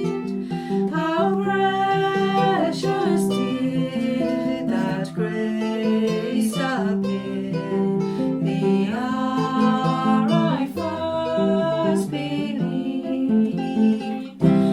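Music with acoustic guitar playing, a melody line gliding above the chords.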